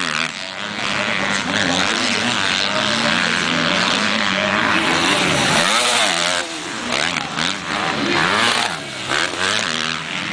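Motocross bike engines racing, revving up and down over and over as the riders work the throttle around the track.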